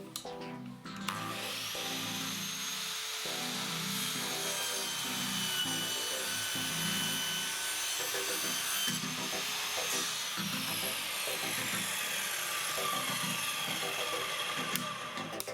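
Power miter saw cutting a polyurethane molding at 45 degrees: the motor starts about a second in and runs with a steady whine, then falls in pitch as the blade spins down over the last few seconds.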